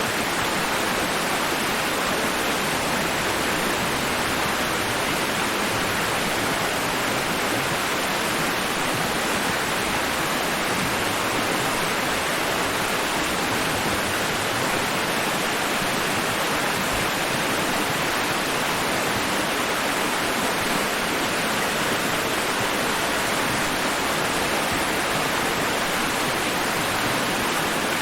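Steady white noise, a rushing hiss spread evenly from low to high pitch, holding one level with no rise and fall of waves.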